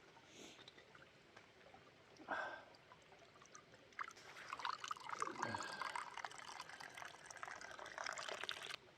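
Liquid being poured into a container, a splashing, gurgling pour that starts about four seconds in, runs for nearly five seconds and cuts off abruptly.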